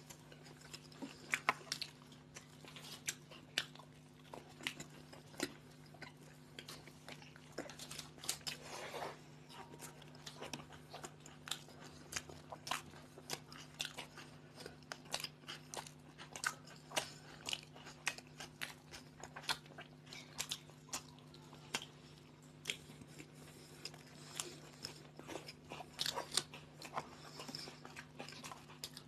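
Two people biting and chewing toasted bread sandwiches close to the microphone: irregular crunches and chewing clicks throughout, over a steady low hum.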